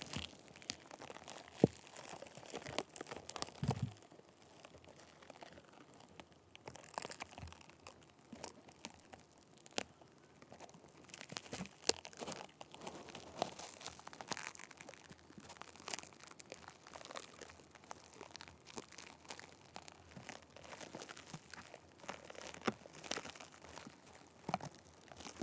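Sticky tape rubbed, pressed and peeled directly on a microphone: close, irregular sticky crackling and scratchy rustling with sharp little clicks and tearing sounds.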